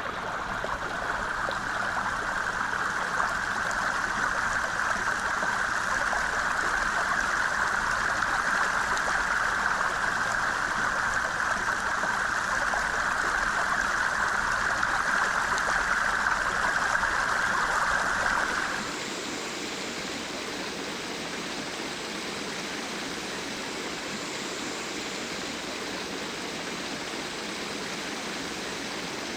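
Stream water rushing steadily over rocks. About 19 seconds in, the sound switches abruptly to a quieter, more even rush of water.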